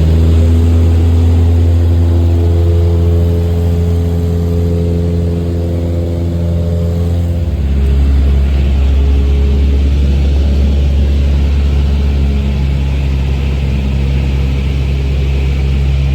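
Propeller airplane's engine and propeller droning steadily in flight, with a slight shift in the low drone about seven and a half seconds in.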